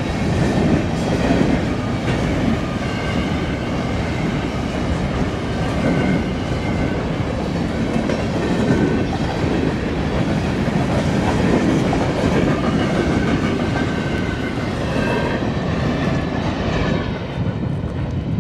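Coal hopper cars of a freight train rolling past close by: a steady rumble of steel wheels on rail with clickety-clack over the rail joints, and faint high tones that come and go. The sound thins out near the end as the train is heard farther off.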